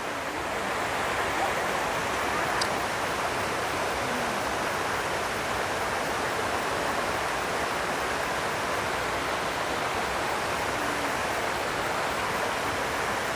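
Steady rushing of flowing water from a rainforest stream, an even, unbroken noise.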